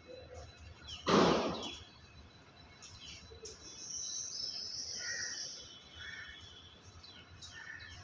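Birds calling: short calls repeated now and then, and a high drawn-out whistling note midway. One loud harsh noise comes about a second in.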